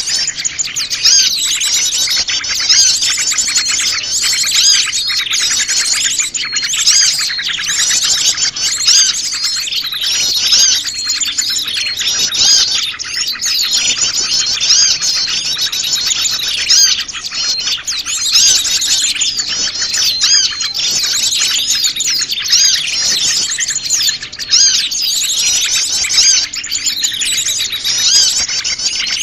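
Many small wild songbirds chirping and trilling all at once in a dense, unbroken chorus, the noisy mixed-bird calls used as a lure to draw small birds in.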